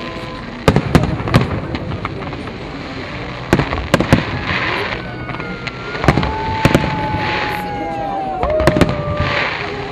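Fireworks display: aerial shells bursting in sharp bangs, singly and in close pairs, over a continuous rumble, with patches of crackling and long whistling tones that fall slowly in pitch.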